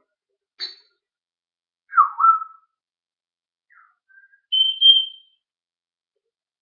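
Parrot whistling: a short chirp, then a sliding whistle about two seconds in, a few faint notes, and a loud, high, steady whistle about four and a half seconds in.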